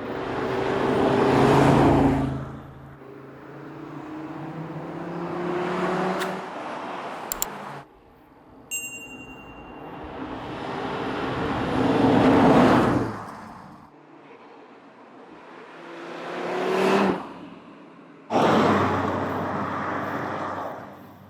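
Audi RS3's 400-hp five-cylinder engine driving past several times in a row. The exhaust note swells as the car comes near and fades as it goes away, about four passes, with sudden cuts between them.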